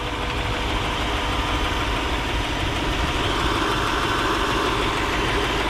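Lexus SC430's 4.3-litre V8 idling steadily, heard up close over the open engine bay.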